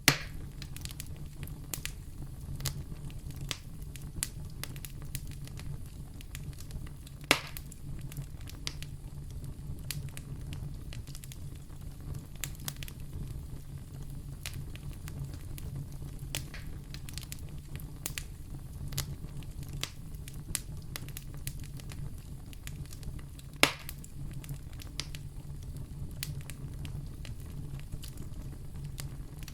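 Wood fire burning in a fireplace: a steady low rumble of flames under scattered small crackles, with three louder sharp pops at the start, about seven seconds in and near 24 seconds in.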